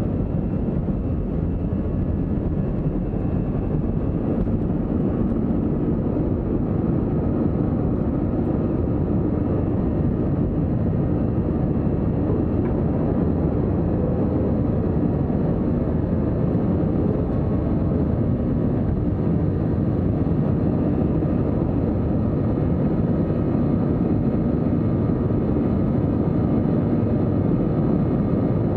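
Steady cabin noise of an Airbus A321-200 airliner, a constant low rumble of its engines and airflow heard from inside the passenger cabin, with a faint steady hum on top.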